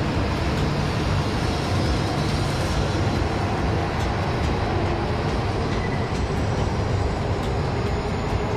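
A coupled E6-series Komachi and E5-series shinkansen train pulling out of the platform. The steady running noise of its cars passing close by does not change.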